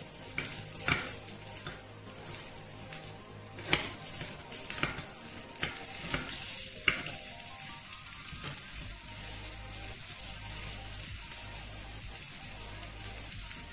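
Pea-and-besan fritters sizzling in a little oil in an appe pan, with a metal spoon clicking against the pan several times as they are turned over. The sharpest clicks come about four and seven seconds in.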